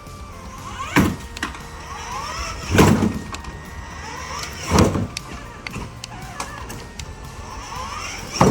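Kids' electric ride-on jeep driven by remote control down a staircase, thudding heavily as it drops onto each step, four times about two seconds apart, with short rising motor whines in between.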